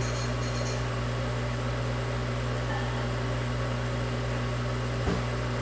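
Steady low electrical hum from running bench equipment, with a single short click about five seconds in.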